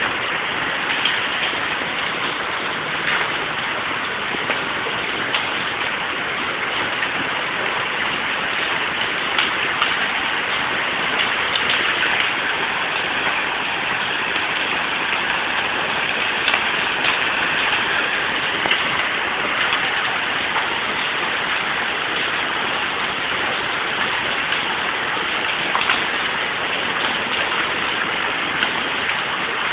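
Hailstorm: heavy rain and hail pelting down in a steady dense hiss, with scattered sharp clicks of hailstones striking.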